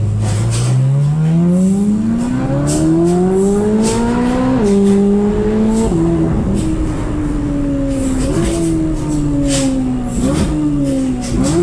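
Chevrolet Corvette C8 Z06's flat-plane-crank V8 through an aftermarket exhaust, revving up hard with steadily rising pitch for about four and a half seconds before an upshift drops it. It then eases off with falling pitch, broken twice by short jumps in pitch.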